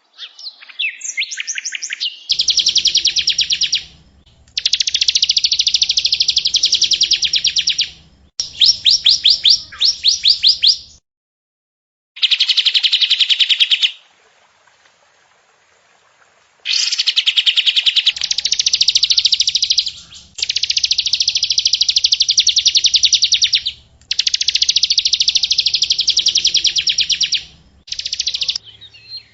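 Recorded songbird song: very fast, high trills in bouts of a few seconds each, with abrupt starts and stops and short silent gaps between.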